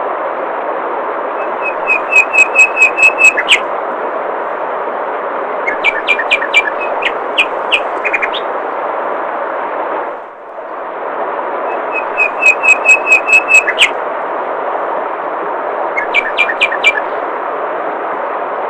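Steady rush of flowing water with a songbird singing over it: a fast run of about eight repeated notes, then a looser phrase of chirps, the pair heard twice. The water sound dips briefly about ten seconds in.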